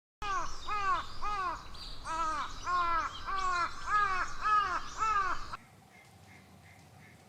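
Crow cawing in a quick series of about a dozen harsh calls, cutting off suddenly about five and a half seconds in.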